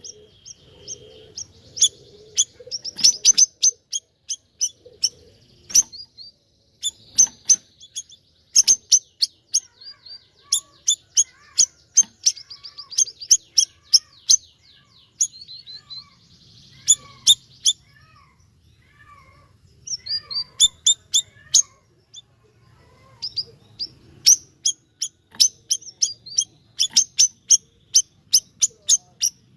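A siri-siri (bayeman) songbird singing vigorously: fast runs of sharp, high, repeated chirping notes in bursts, broken by a few short pauses.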